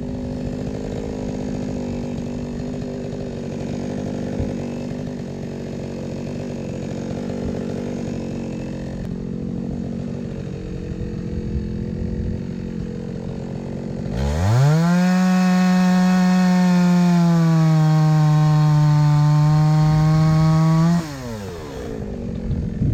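Two-stroke chainsaw idling, then revved up sharply to full throttle for about six seconds. Its pitch sags slightly partway through the high run before the throttle is released and it drops back to idle.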